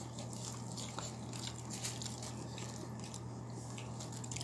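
Quiet eating sounds: chewing and small wet clicks as chicken is eaten with the fingers, over a steady low hum.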